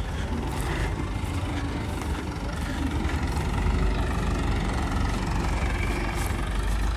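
A vehicle engine idling steadily, with a heavy low rumble.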